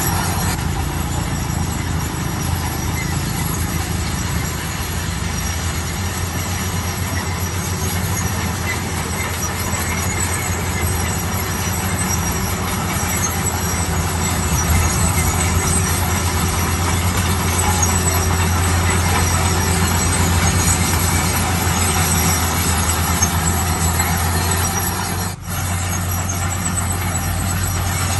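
Heavy diesel construction machine running steadily under load, a constant low drone. A momentary dropout comes about three seconds before the end.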